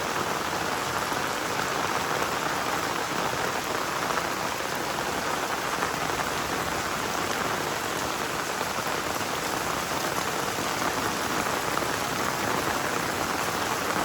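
Heavy rain falling steadily in a dense, even hiss with no letup.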